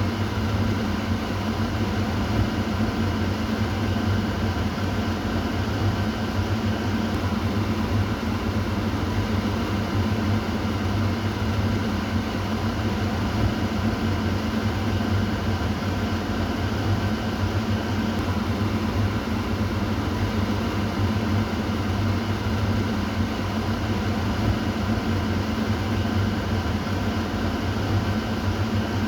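Kitchen exhaust fan running steadily: an even whoosh of air over a low motor hum.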